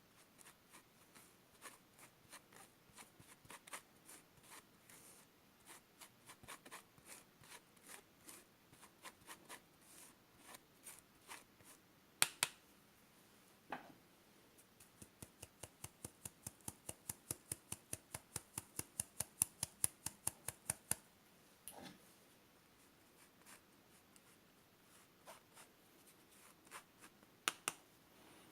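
Spatula scraping and slapping against a mixing bowl while folding macaron batter (macaronage), faint short strokes that settle into a quick regular rhythm of about three a second midway, with a few louder knocks against the bowl.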